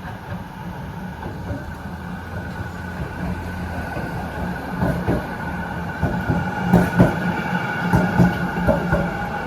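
Melbourne tram running along the street: a steady high whine throughout, with the wheels knocking over the track getting louder from about five seconds in.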